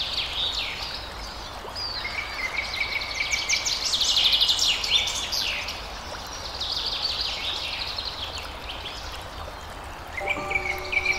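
Several songbirds chirping and trilling together, with quick repeated notes and a held high whistle at times, over a steady background hiss. A few steady music tones come in near the end.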